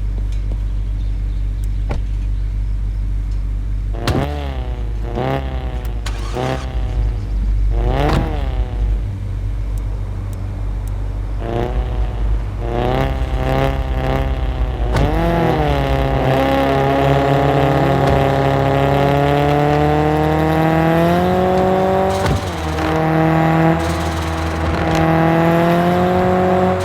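Straight-piped Volkswagen Golf Mk7 exhaust idling, then blipped about ten times in quick revs, then held at raised revs for the last ten seconds or so with a brief dip partway through.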